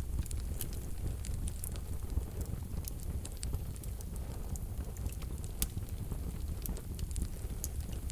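Wood fire burning in a wood-burning stove: a steady low rumble of flames with frequent sharp crackles and pops from the logs, scattered irregularly throughout.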